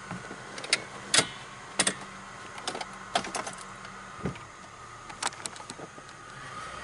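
An old car's engine running with a faint steady hum while about a dozen sharp, irregular clicks and knocks sound, the loudest about a second in.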